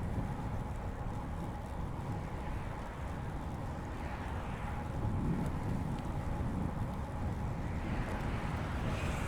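Riding a road bicycle on a paved path: wind buffeting the microphone and tyre noise make a steady low rumble that swells and eases, with a faint steady tone underneath.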